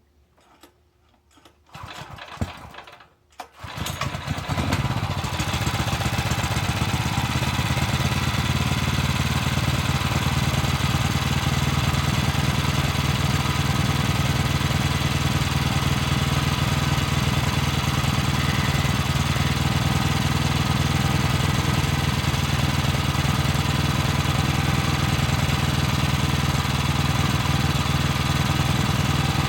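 Brait 17 hp petrol engine cranked for a second or so and catching about three and a half seconds in, then running steadily.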